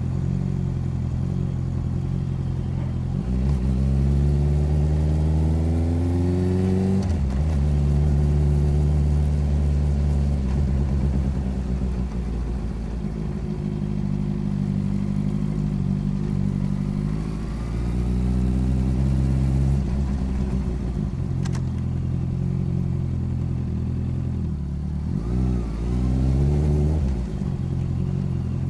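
Motorcycle engine running under way, picked up close beside the bike: it revs up through a gear about three seconds in, drops sharply at the shift, holds steady, climbs and shifts again later, with a brief blip of revs near the end.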